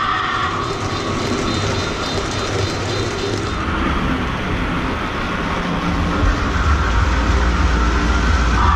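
Lionel O-scale model trains running on the layout track, a steady rolling rumble that grows louder and deeper about six seconds in.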